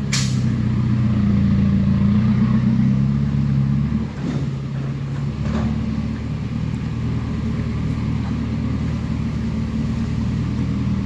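Heavy diesel engine running steadily at a low, even note, with a sharp click at the very start. About four seconds in the note dips and shifts, then carries on steadily.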